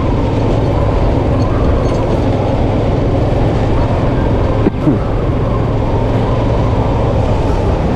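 Yamaha FZ-S V2 motorcycle's single-cylinder engine running steadily while riding at cruising speed, with wind rushing over the microphone.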